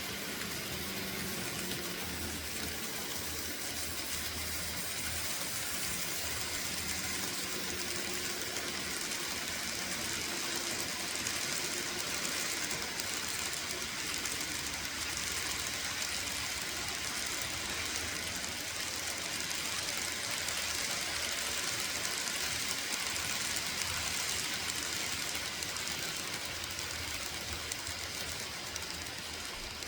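Kato N scale model coal trains running on the layout: a steady rolling hiss of many small hopper wheels on the track over a low motor hum, swelling a little in the middle and easing near the end.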